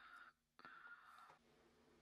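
Very faint breathing: two short hissing breaths, the second starting about half a second in.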